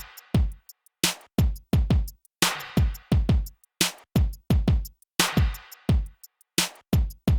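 Programmed drum-machine beat playing on its own: deep kick drums that drop in pitch, sharp snare hits and light hi-hat ticks in a steady pattern, with no other instruments.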